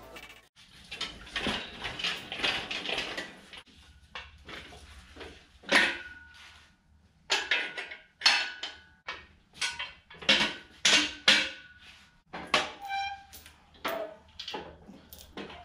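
Metal tools and car parts clanking and clinking as they are handled and set down: a string of separate knocks, some with a short metallic ring.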